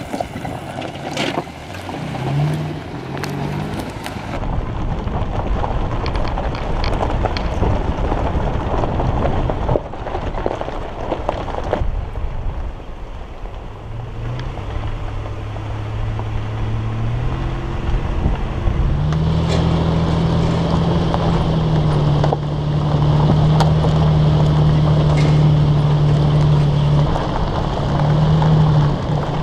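Nissan Xterra's V6 engine running as the SUV drives along a dirt trail, with tyres rolling over gravel and wind noise on the microphone. The engine note climbs about halfway through and then holds steady, with scattered clicks of stones throughout.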